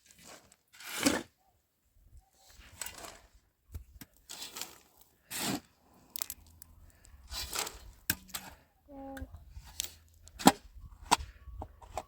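Irregular tearing, rustling and cracking noises of hut-building material such as straw, brush or sheeting being worked by hand, with a sharp crack about ten and a half seconds in.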